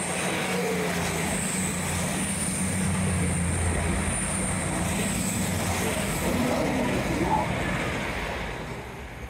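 A diesel train passing: a steady low engine drone with a high whine over it for the first five or six seconds, then fading away near the end.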